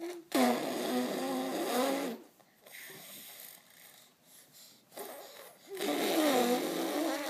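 A toddler making funny noises with his voice: pitched, wavering sounds mixed with a rough hiss. They come in two long stretches, the first starting about half a second in and the second near the end, with quieter noises between.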